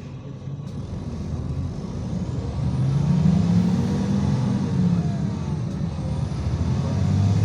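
IVECO Crossway city bus engine pulling away under load, its low note growing louder over the first three seconds and then holding steady.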